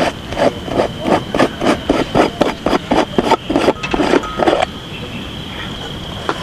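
A rapid series of short knocks or scrapes, about three to four a second, that stops about four and a half seconds in, over a steady high thin tone.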